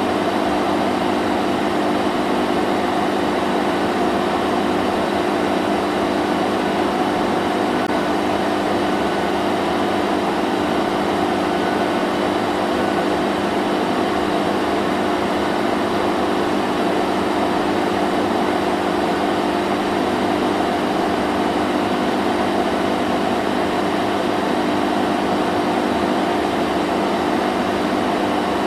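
Vacuum cleaner running steadily, a constant motor hum with several steady tones under an even rushing hiss of air.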